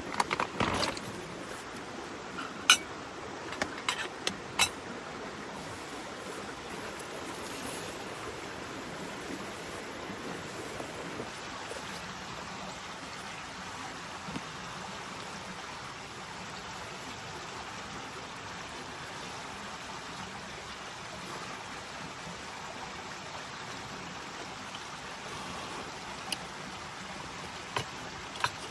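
Steady rain falling, a continuous even hiss. A few sharp clicks or knocks come in the first five seconds and again near the end.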